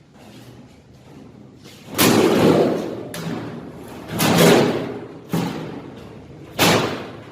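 Four heavy bangs, the first two each trailing off over about a second of rattling noise, the last one short and sharp: something heavy being knocked and set down during the door work.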